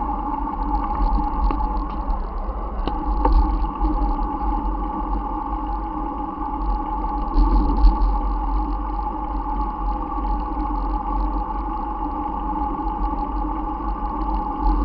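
Wind buffeting the microphone and steady rolling noise from a moving bicycle, with a low, uneven rumble and a constant hum-like drone throughout.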